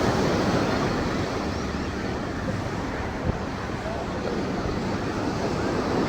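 Steady beachfront ambience: a continuous wash of surf and road traffic, with faint voices and some wind on the microphone.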